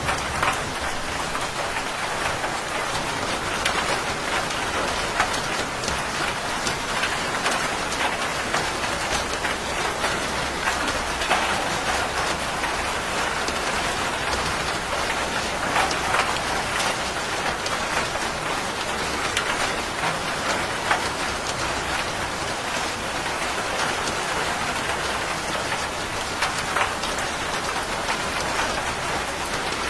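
Steady heavy rain falling on a hard surface, a constant hiss with many sharp individual drop hits.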